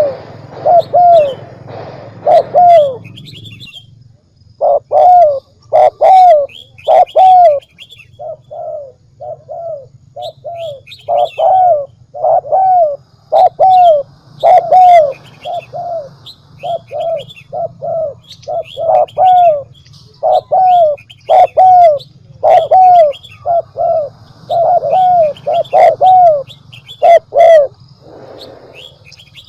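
Spotted dove cooing steadily in a long series of short repeated notes, a decoy dove's call of the kind used to lure wild doves. Small birds chirp faintly in the background over a steady low hum.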